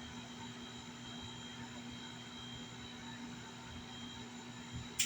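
Steady whirring machine hum with a few constant tones, and a single sharp click near the end.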